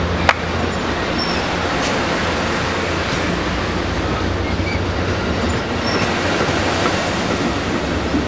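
Passenger train running through the station close by: a steady rumble of wheels on rail with a low hum underneath, a sharp click about a third of a second in, and a few short high wheel squeaks.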